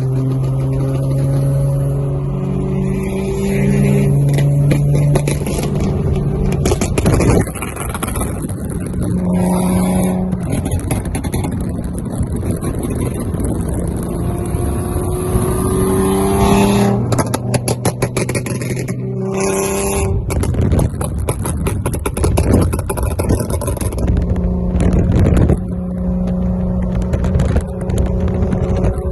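Car engines running and revving, their pitch rising and falling several times, with a stretch of rapid crackling about two thirds of the way through.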